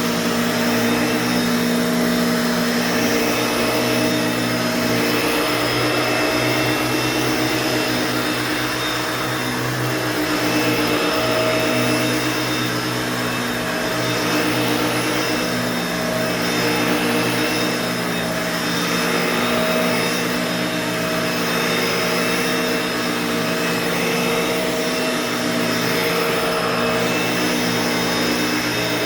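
Bissell Pet Hair Eraser Turbo upright vacuum running steadily, a continuous whirring motor hum whose loudness swells and eases slightly. Its loudness is what the owner dislikes about it.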